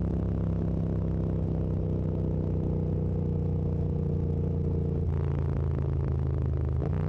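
Yamaha MT-07's parallel-twin engine running steadily under way, heard through a mic mounted on the bike. The engine note shifts about five seconds in and again near the end, as the throttle or gear changes.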